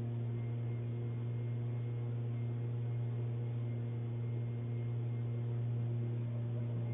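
Steady low electrical hum with a stack of overtones, unchanging throughout, over a faint hiss.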